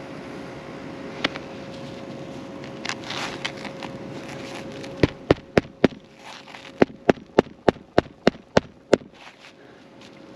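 Hammer driving roofing nails into brittle asphalt shingles: a quick run of four strikes about five seconds in, then after a pause a run of eight evenly spaced strikes, about three a second.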